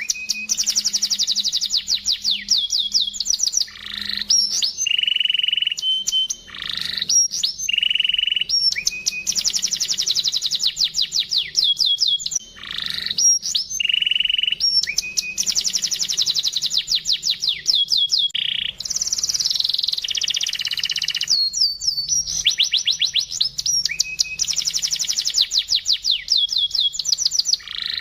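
Domestic canary singing a long repeating song: a held steady note, then fast rolling trills of quickly falling notes, the pattern coming round about every five or six seconds.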